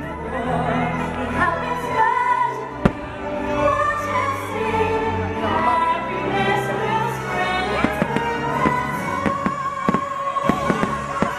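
Fireworks-show soundtrack music with singing, broken by firework bangs: a sharp one about three seconds in and a run of shorter pops in the second half.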